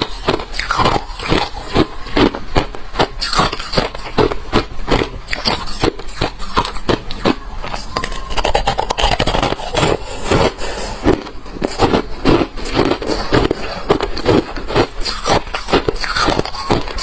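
Close-miked chewing of hard refrozen crushed ice: a rapid, loud run of sharp crunches, several a second, as the ice cracks between the teeth.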